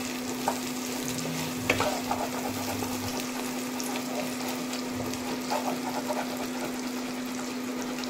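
Chopped onion, garlic and ginger sizzling in oil in a nonstick wok while being stirred with a spatula, with a few short scrapes and taps of the spatula on the pan. A steady low hum runs underneath.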